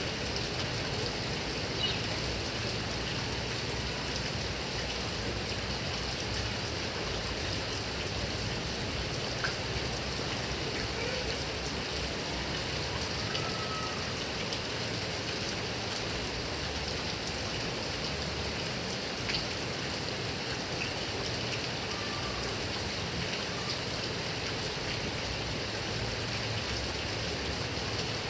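Heavy rain falling steadily on grass and coconut palms, a constant hiss with a few sharper drop ticks now and then.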